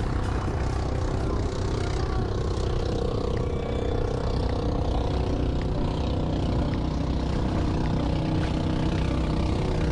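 Motorboat engine running steadily, its even drone mixed with a rush of wind and water noise.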